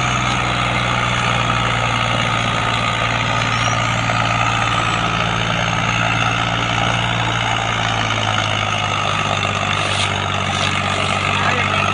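Tractor diesel engine running steadily with an even, deep hum.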